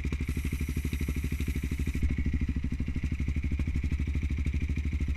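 Trail motorcycle engine running at low, steady revs, with a rapid, even pulse and no revving.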